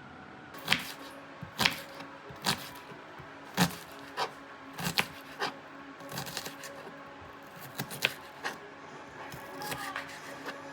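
Irregular sharp knocks and clatter of kitchen work, about a dozen over the clip, spaced unevenly, with a steady faint hum underneath.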